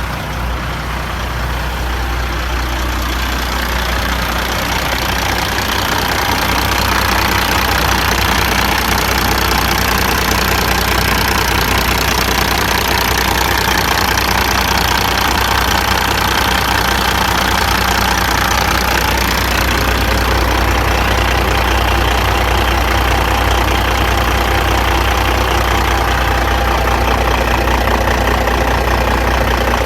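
1999 Kenworth W900 dump truck's diesel engine idling steadily with a low, even drone, growing a little louder over the first several seconds.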